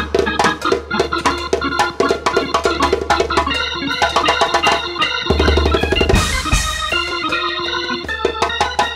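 Live big-band jazz: busy drumming under organ-like keyboard chords, with a cymbal crash and a deep swell a little past the middle.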